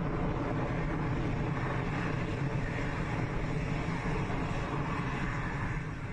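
Steady, noisy rumble of a rocket engine in flight, beginning to fade near the end.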